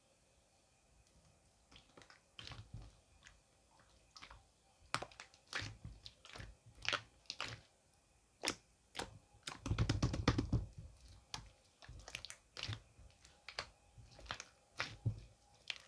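Irregular soft, wet-sounding clicks and squishes, sparse at first and then more frequent, with a dense crackling cluster about ten seconds in.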